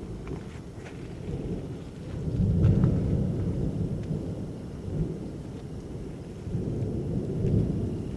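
Thunder rolling and rumbling, swelling loudest about two and a half seconds in, then again near the end.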